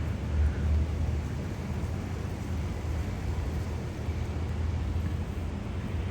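Steady low rumble of city ambience, a distant traffic hum with an even background hiss.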